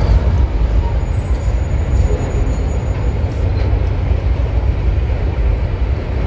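Freight train rolling past, a loud, steady rumble of wheels and wagons.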